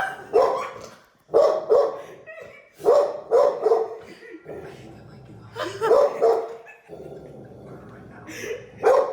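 A dog barking in short calls, often two in quick succession, five bouts about one to three seconds apart.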